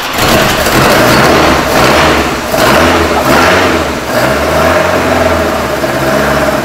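Freshly rebuilt Lancia Fulvia Zagato 1600's narrow-angle V4 running on its first start after restoration. It is revved in short blips of throttle, roughly one every second, and is steadier near the end.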